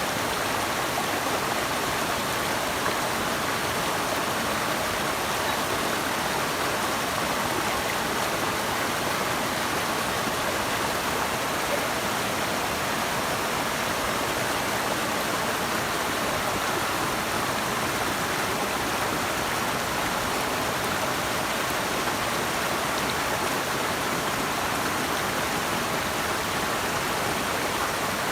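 Running water of a stream or small waterfall, a steady, even rush with no breaks.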